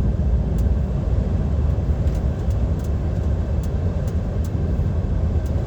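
Steady low rumble of a DAF XF 530 lorry's diesel engine and tyres, heard inside the cab while cruising, with a few faint scattered ticks.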